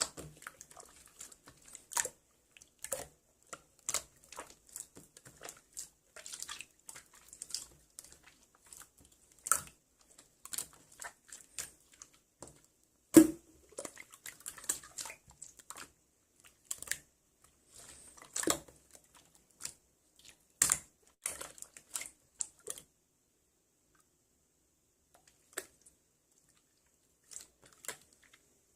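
Irregular small clicks, taps and crinkly handling noises, close up in a small room, with one sharper knock about halfway through.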